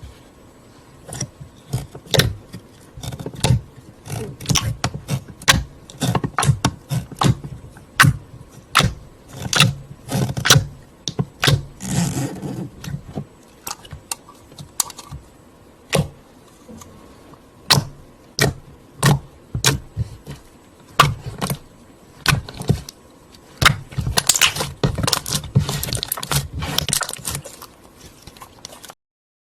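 Hands unboxing a slime pot and its packaging: irregular plastic clicks, snaps and crackles, with longer stretches of scraping and crinkling about twelve seconds in and again near the end.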